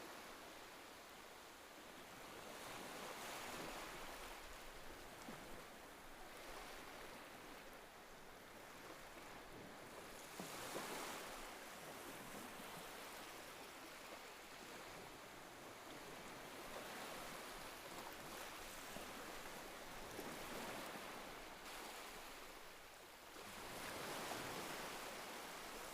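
Faint ocean surf: waves washing in, swelling louder every several seconds over a steady hiss of water.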